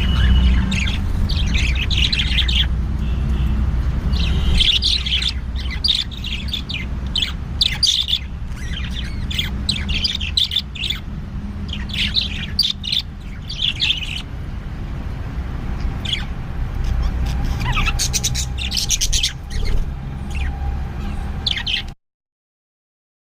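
Pet birds chirping in short, repeated clusters of high notes over a steady low rumble. The sound cuts off suddenly near the end.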